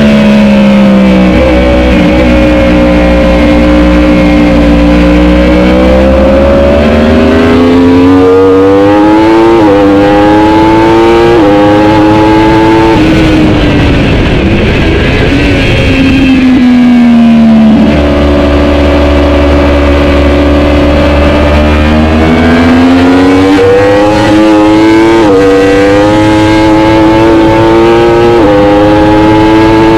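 Racing superbike engine at full race pace: twice the note climbs through the gears in steps with quick gear changes, then drops away as the bike brakes and downshifts.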